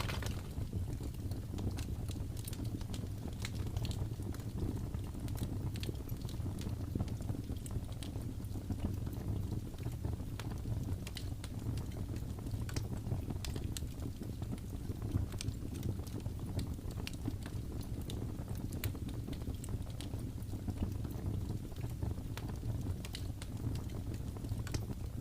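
Fireplace fire crackling, with irregular scattered pops and snaps over a steady low rumble.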